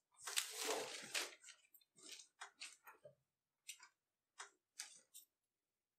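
Rustling and crinkling as a sheepskin coat is folded and shifted about on sheets of newspaper: one longer rustle near the start, then a string of short ones.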